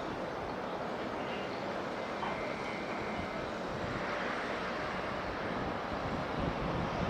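Steady jet engine noise of an airliner.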